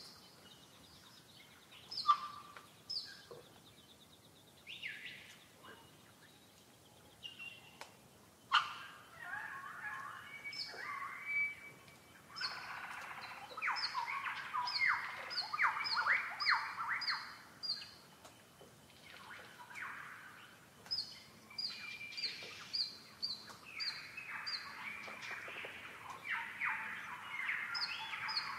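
Several wild birds singing and calling. One bird repeats a short, high note in runs of about two a second. Another gives a louder, rapid, chattering song in the middle and again near the end.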